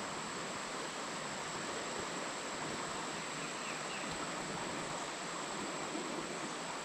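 Steady rush of flowing creek water, with a thin, steady high-pitched tone above it.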